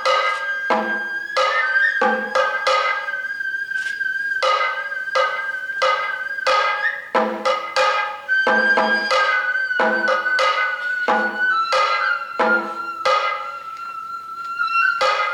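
Sato kagura accompaniment music: a transverse bamboo flute holds a long, high melodic line that drifts slowly lower, while drums strike a steady beat of roughly two strokes a second.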